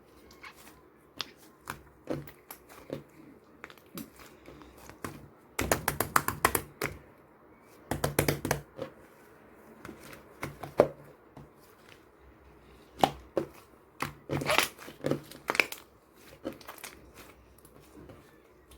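Slime being squished and worked by hand: bursts of sharp sticky clicks and small pops. The clicks come in dense clusters of about a second each, the loudest around six, eight and fifteen seconds in, with scattered single clicks between.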